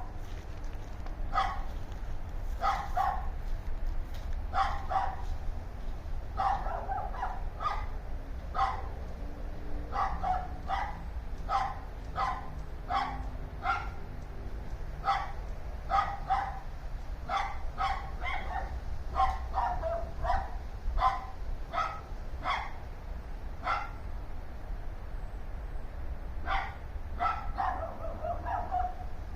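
Dogs barking over and over, short sharp barks about one a second, sometimes in quick runs of two or three. A steady low rumble sits underneath.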